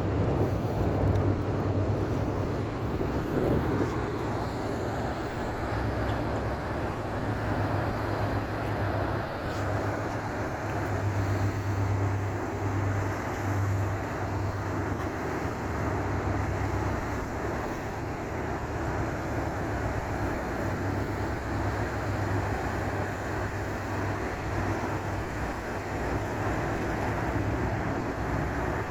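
Docked ferry's engines running steadily: a constant low hum under a broad rushing noise.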